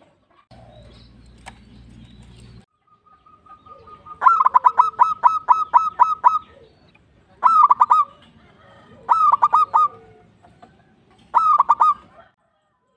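Zebra dove (perkutut) singing. A long run of about ten quick cooing notes, then three shorter bursts of a few notes each, spaced a couple of seconds apart.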